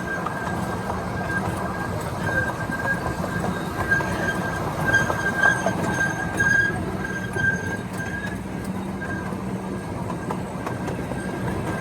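Miniature railroad train rolling along its track: a steady rumble of the cars on the rails, with a high, thin wheel squeal that comes and goes throughout and rises briefly about eight seconds in.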